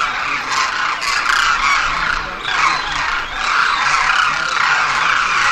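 Large flock of pigeons in flight, a loud, steady, dense rush of sound.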